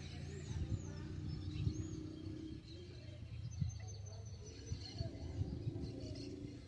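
Small birds chirping with short high calls and one held whistle, over a steady low hum.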